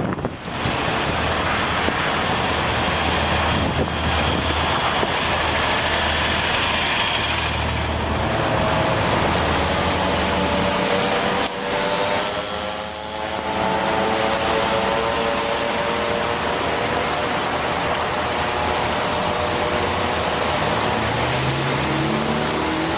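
Steady wind and road hiss from riding a bicycle in the rain, with motor traffic passing close by. A low engine hum runs through the first half, a vehicle's drawn-out tone sounds in the middle, and an engine revs up near the end.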